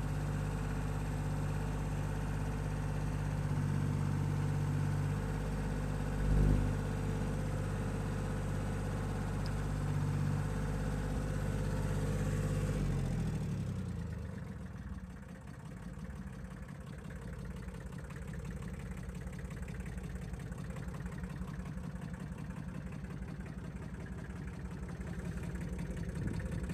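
Kubota L2202 DT tractor's diesel engine running at raised revs, then throttled back about halfway through and settling into a lower idle. A brief thump sounds about six seconds in.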